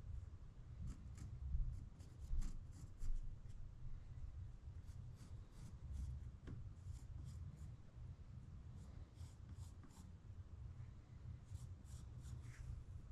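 Faint, irregular scratching and scraping of a hand tool working wood, in short quick strokes with small pauses between them.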